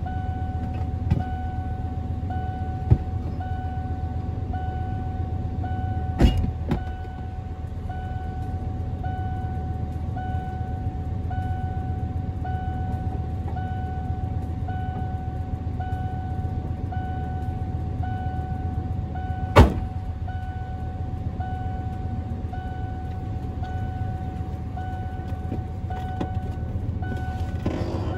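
A vehicle engine idling with a steady low hum, heard from inside a van's cab. Over it a steady high tone pulses about once a second, and a few sharp clicks come through, the loudest about twenty seconds in.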